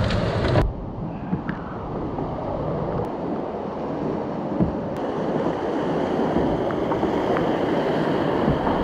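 Steady rush of a whitewater river running at high water, with an abrupt change in the sound about half a second in.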